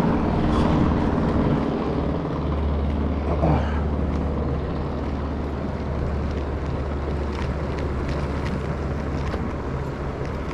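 A steady low engine drone over wind and traffic noise, with a brief falling whine a few seconds in.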